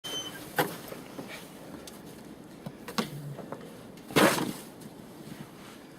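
Three short knocks or thumps, the last one about four seconds in longer and louder, like a brief scrape.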